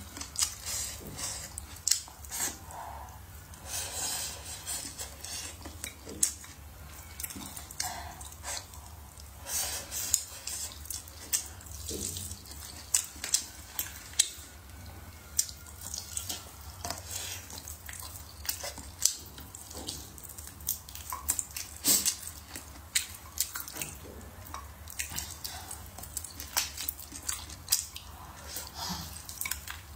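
Close-miked wet chewing and lip smacking as a person bites and chews braised meat off a bone, with many short, sharp clicks throughout.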